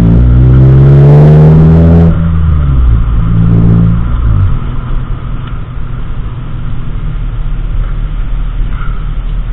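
Car engine accelerating, its pitch rising for about two seconds, then a second shorter pull a couple of seconds later, settling into a steady low rumble of a car cruising.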